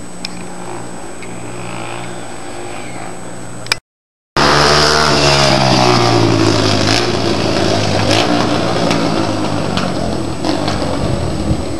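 2005 Yamaha TT-R125's four-stroke single-cylinder engine running through a stock exhaust with the baffle taken out. It starts as a steady hum. After a brief break it comes back loud and close, its pitch falling as the bike goes past.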